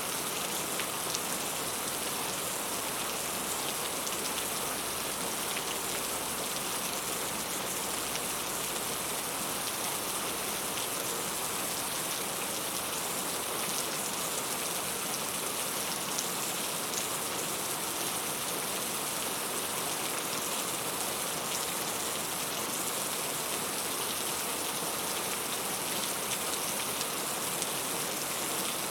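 Steady rain falling on a surface, a constant even hiss with scattered individual drop taps.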